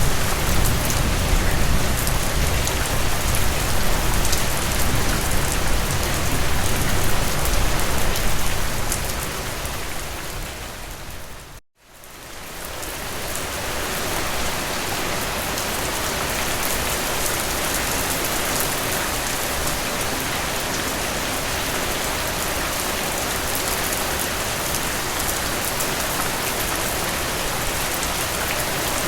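Heavy rain falling steadily as a dense, even hiss. About ten seconds in it fades down to a moment of silence, then fades back up and carries on steadily.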